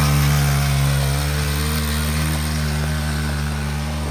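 Pit bike engine running at steady, held revs, its pitch staying level.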